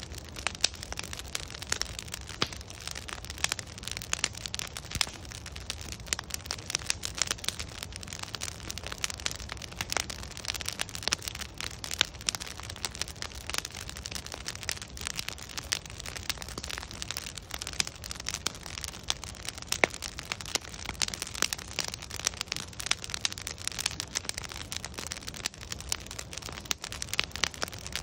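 Wood fire of logs burning, with dense, irregular crackles and pops over a steady hiss and low rumble of the flames.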